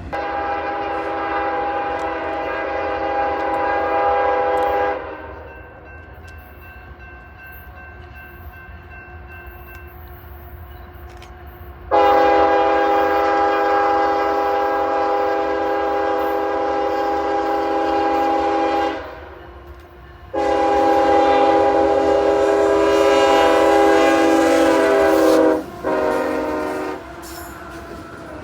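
Locomotive air horn sounding a chord of several notes: one long blast, a pause, then two more long blasts and a short one near the end. A train's low rumble runs underneath.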